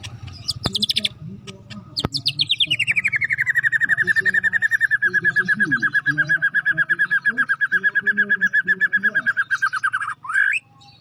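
White-rumped shama singing: a few short high notes, then a long, very rapid trill that falls in pitch over a second or so and holds level for about six seconds, ending in a quick rising note.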